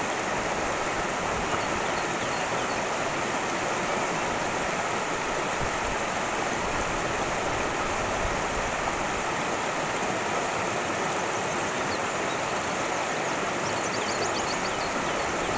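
Cascading stream rushing steadily over rocks, an even unbroken water sound, with a few faint high chirps near the end.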